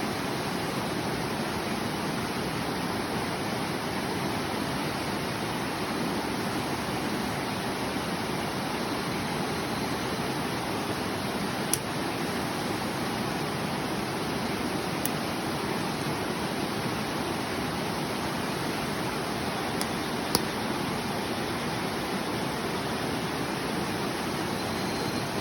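A river rushing steadily, with a few sharp pops from a wood campfire crackling, the loudest about halfway through and again about two-thirds of the way in.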